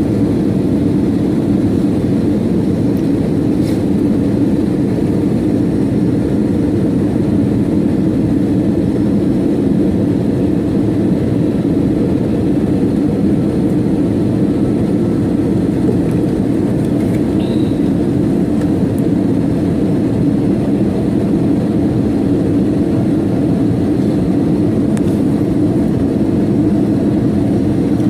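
Steady airliner cabin noise: the low, even rumble of the engines and airflow heard from inside the passenger cabin, with no change in pitch or level.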